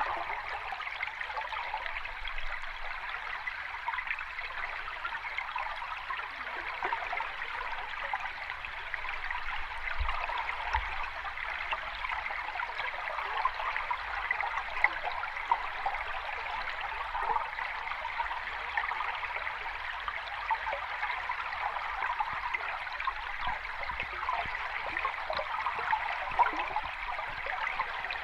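A stream or small cascade of water running steadily over rocks, a continuous splashing rush with small gurgles.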